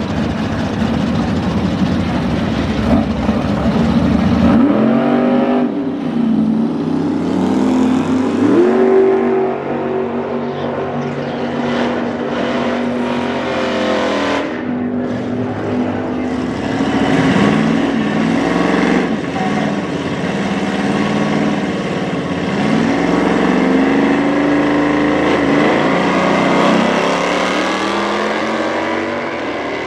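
Muscle-car V8 engines at a drag strip, a deep low rumble for the first few seconds, then engines revving again and again, each rev rising in pitch.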